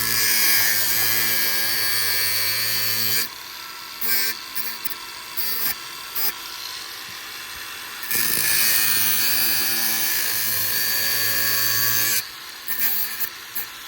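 Handheld electric power tool run in two steady bursts of about three and four seconds, with small clicks and knocks of handling between them.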